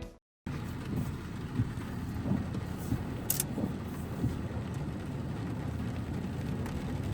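A car driving: steady low rumble of engine and road noise, with small knocks now and then.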